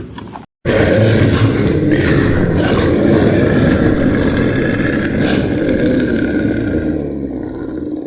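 A large animal's loud, rough roaring, starting abruptly about half a second in and running on continuously, easing a little near the end.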